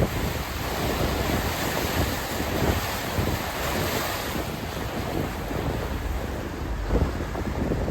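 Wind buffeting the microphone over a steady rush of lake water, as from a moving boat, with gusts in the low rumble.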